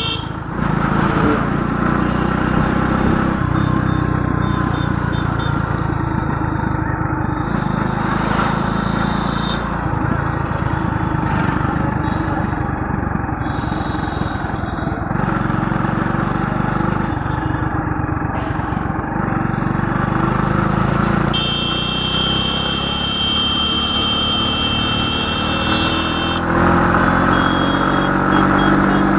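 Motor vehicle engine running steadily with road noise. A high steady horn-like tone sounds for about five seconds near the end.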